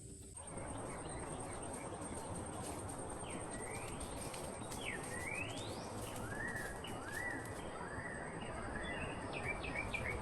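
Tropical forest ambience: birds call with a few fast rising whistles, then a run of short repeated arched notes, over a steady rushing noise. A high, thin insect trill runs until about halfway through, then stops.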